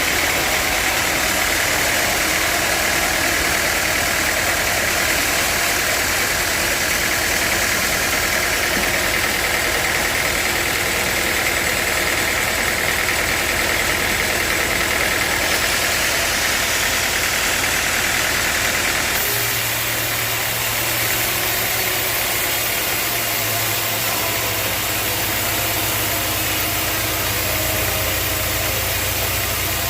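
Sawmill machinery running steadily with a continuous mechanical noise. About two-thirds of the way through, the higher hiss gives way to a steadier low hum.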